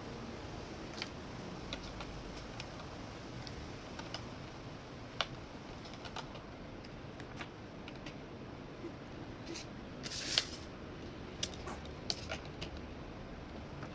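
Light irregular clicks and taps of small plastic miniature toy items being set onto the shelves of a toy fridge, with a short scrape about ten seconds in.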